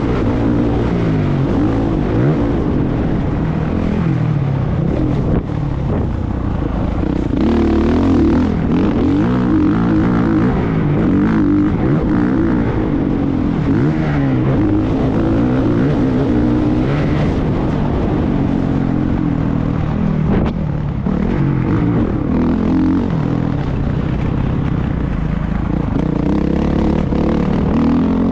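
Motocross bike engine running hard, its pitch rising and falling over and over as the throttle opens and closes.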